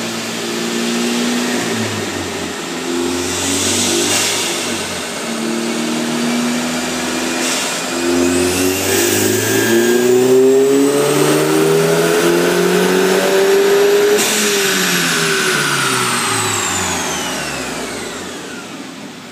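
Volkswagen Golf engine under full load on a chassis dyno: the revs climb and drop back through a few gear shifts, then rise in one long pull to about fourteen seconds in, after which the throttle closes and the engine winds down with falling pitch. A high whine rises and falls along with the revs.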